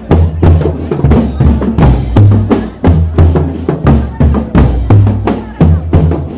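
Marching drum band playing: bass drums booming under snare drums in a steady, loud rhythm.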